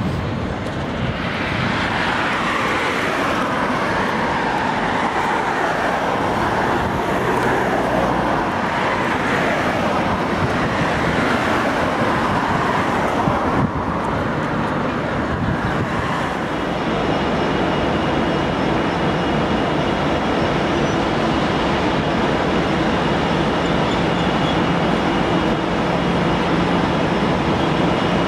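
A train running at a railway station, with steady mechanical noise. About halfway through, a steady low hum and a thin high whine come in and hold.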